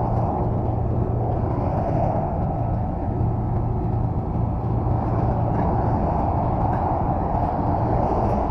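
Steady rumble of an idling engine, with a constant low hum under it.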